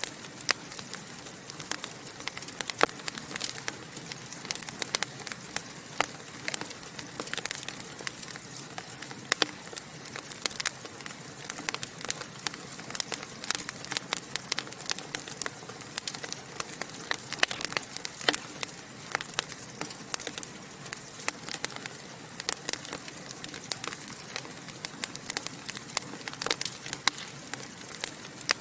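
Fire in a fireplace crackling, with frequent irregular sharp pops and snaps over a steady hiss.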